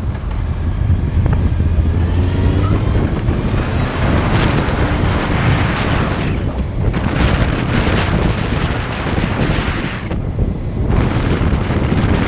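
Heavy wind noise buffeting the microphone of a moving motorcycle, with the engine's low drone underneath; the engine note climbs during the first few seconds as the bike speeds up.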